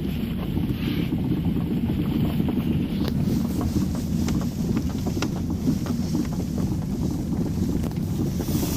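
Steady deep rumble of a running vehicle with wind buffeting the microphone.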